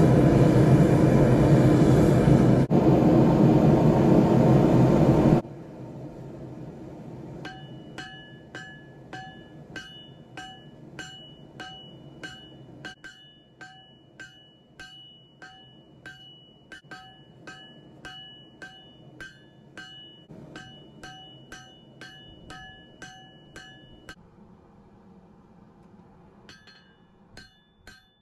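A loud steady roar that cuts off suddenly about five seconds in, then a hammer forging hot steel on an anvil: a long run of even blows, about two a second, each with a clear metallic ring, pausing briefly near the end before a few more blows.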